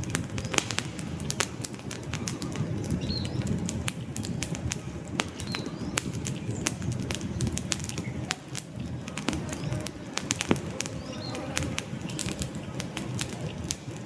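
Wood fire burning in a fireplace: logs crackling and popping at irregular moments over the low, steady rush of the flames.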